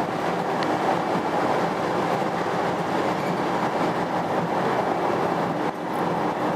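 Steady running noise of a passenger train, heard from inside the carriage, with a brief dip about five and a half seconds in.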